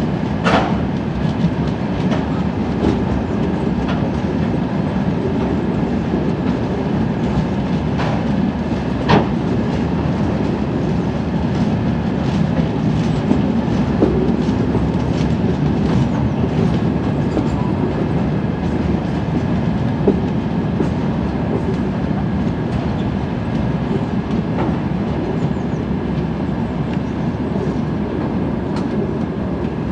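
Empty open freight wagons rolling past, a steady rumble of wheels on rail with clickety-clack over the joints and a few sharp clanks, the loudest about nine seconds in.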